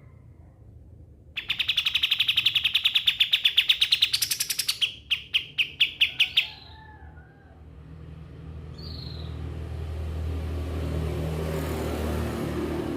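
Kapas tembak bird singing a loud, fast trill of rapid repeated notes that runs for about three seconds, then breaks into a few slower separate notes before stopping. Afterwards a low rumble builds up in the background, with a couple of faint short chirps.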